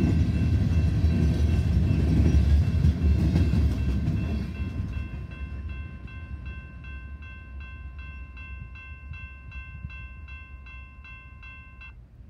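Freight cars rolling past on the rails with a heavy rumble that fades over the first few seconds as the end of the train clears. The grade-crossing warning bell rings steadily, about two to three dings a second, then cuts off suddenly near the end as the crossing signal clears.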